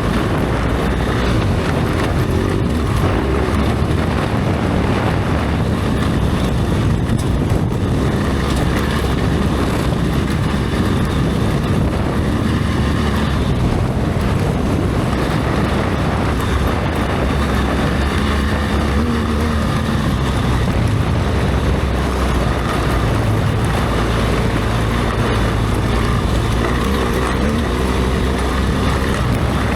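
BMW R1200GS Adventure's boxer-twin engine running under way, with wind noise on the microphone. The engine note shifts a little in pitch now and then.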